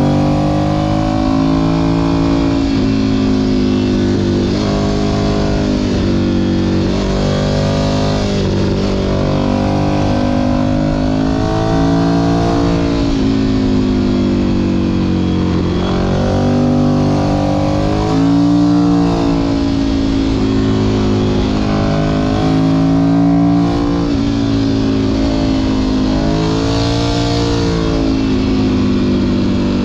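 Ducati Monster 1100 EVO's air-cooled L-twin engine under way, its revs climbing and dropping again and again with throttle and gear changes.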